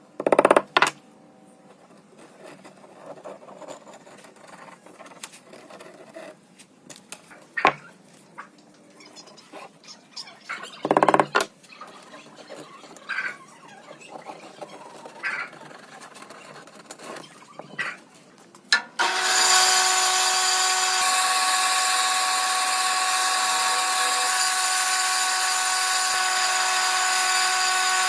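Scattered knocks and clicks of wood and tools being handled, then about two-thirds of the way through a power tool starts suddenly and runs steadily with a whine.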